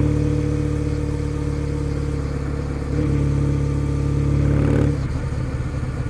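Kawasaki W650's air-cooled parallel-twin engine running through a POSH W1 full exhaust while riding, at a steady throttle. About three seconds in the note steps up and grows a little louder, then just before the end the throttle closes and the exhaust sound drops and turns uneven.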